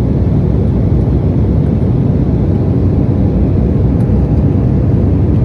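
Steady, loud, low rumble of cabin noise inside a passenger aircraft, with a faint steady hum over it.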